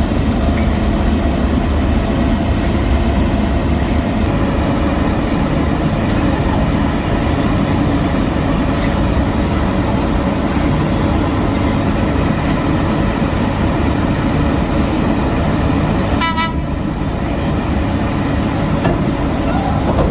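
Heavy road-construction machinery engines running steadily. One short horn toot near the end.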